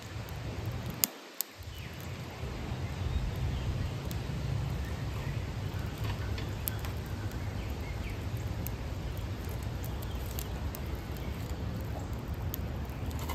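Wind rumbling on the microphone, with a few sharp crackles from a wood fire burning well in a small stove. The rumble drops out briefly a little after a second in.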